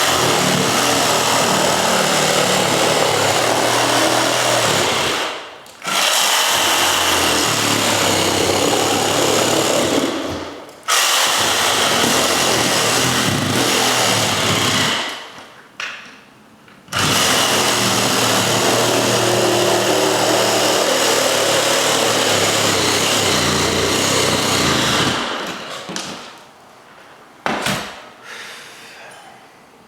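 A power tool cutting into a house wall, run in four long stretches with short pauses between them. It stops about 25 s in, leaving quieter handling sounds.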